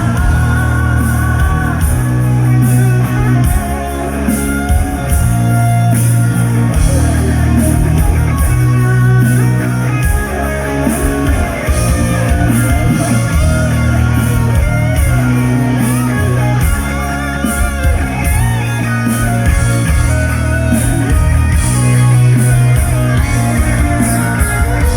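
Rock band playing an instrumental break of the song, a guitar carrying the melody over bass and drums.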